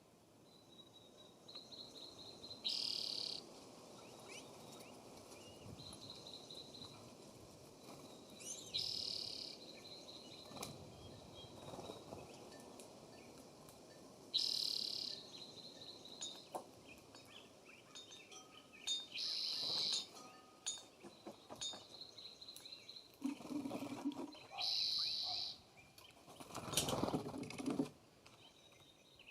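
Wild birds calling around a feeder: a short, harsh, high call repeated about every five to six seconds, with thin, steady high notes between, and a few louder, lower-reaching calls near the end.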